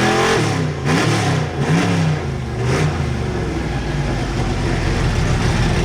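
Modified pulling pickup truck's engine coming down off high revs, blipped a few times in the first three seconds, then settling to a steady loud idle.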